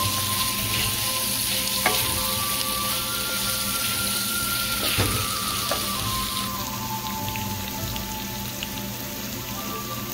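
Onion-tomato masala sizzling in hot oil in a non-stick kadai while it is stirred with a wooden spatula, with two sharp knocks of the spatula against the pan about two and five seconds in.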